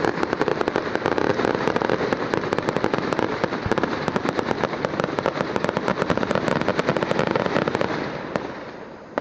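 Fireworks going off in a fast, continuous run of crackling pops, many to the second, that dies away near the end.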